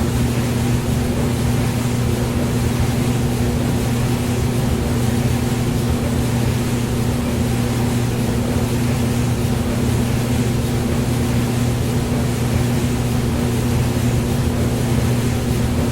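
Hair dryer running steadily: an even rush of blown air over a low, constant motor hum.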